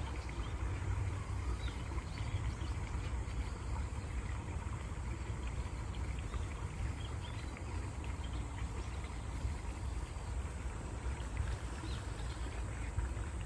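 Steady rush of flowing stream water with a deep low rumble, and faint short bird chirps over it.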